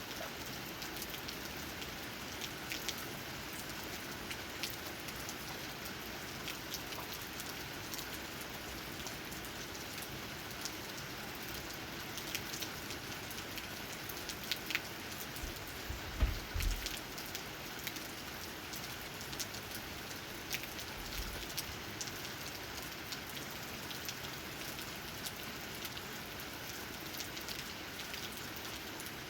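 Steady rain with raindrops tapping on leaves, scattered louder single drips throughout. A brief low thump a little past halfway is the loudest moment.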